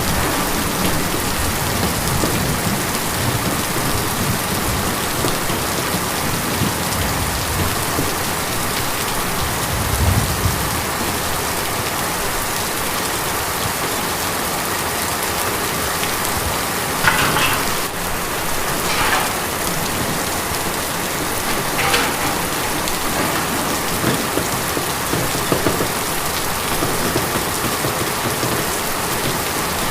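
Steady rain on a tin roof, an even patter with a few sharper, louder drop hits in the second half.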